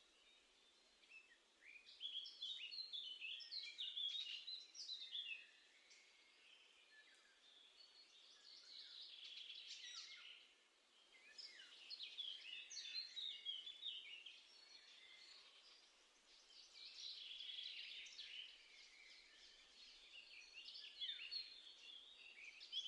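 Garden songbirds singing: about five phrases of rapid, high chirping notes, each a few seconds long, with short gaps between them.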